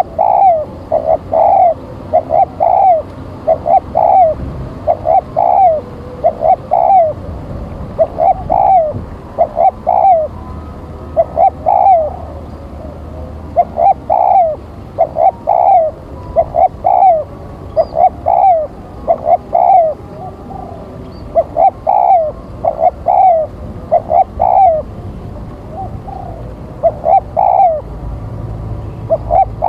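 Spotted dove (tekukur) used as a decoy bird, cooing over and over in short phrases of two or three notes: the call meant to draw wild doves in to fight.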